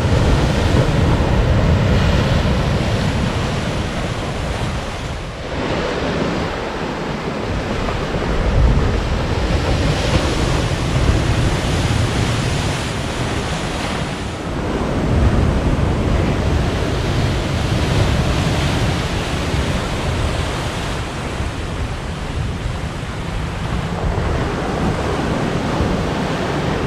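Ocean waves crashing on a rocky coastline, surging and easing in several swells, with wind noise on the microphone.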